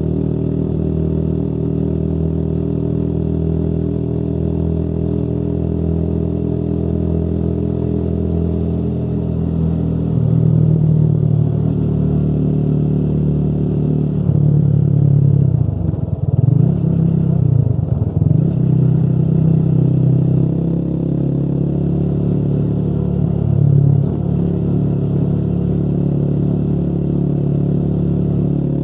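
Motorcycle engine running while riding, at a steady pitch for the first third, then louder with revs changing; the engine note dips and rises twice in the middle, as with gear shifts, before settling back to a steady run.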